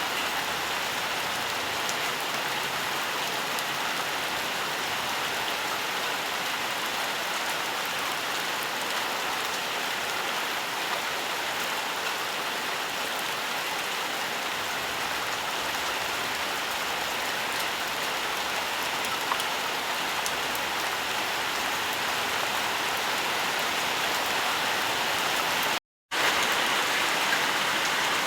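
Steady rainfall: an even hiss with many small drop ticks. Near the end the sound cuts out completely for a split second, then carries on slightly louder.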